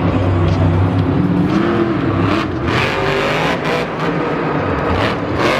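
Monster truck's supercharged V8 engine revving up and down in the arena, with several short surges of louder noise in the second half as the throttle is blipped.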